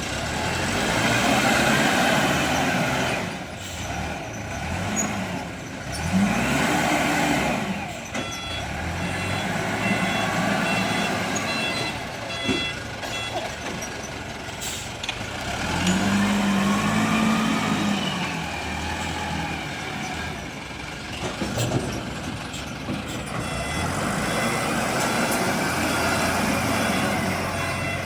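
Diesel engine of a SYZG ZL932 wheel loader, working and revving up and falling back several times. Intermittent reversing beeps sound in places.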